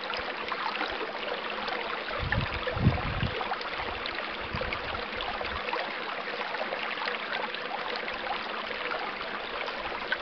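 Small stream running and babbling, with a few low thumps about two to three seconds in.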